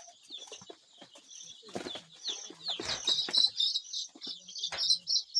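A crowd of young chicks peeping, many short high cheeps overlapping, growing louder and more rapid about three seconds in. A few brief knocks of handling sound among them.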